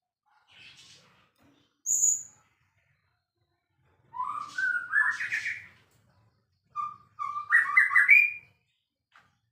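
White-rumped shama singing in separate phrases: a short high whistle about two seconds in, then two longer phrases of quickly changing notes, the first rising, with pauses between them.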